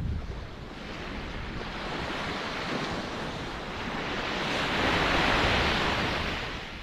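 Ocean surf: a wave washes in, swelling to its loudest about five seconds in and then easing off.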